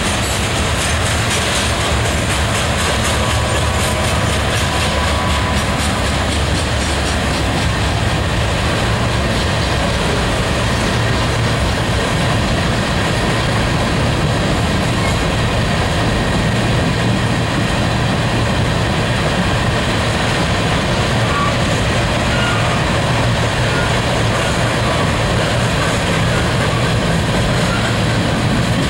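Freight train cars, mostly covered hoppers, rolling steadily past: the continuous noise of steel wheels running on rail.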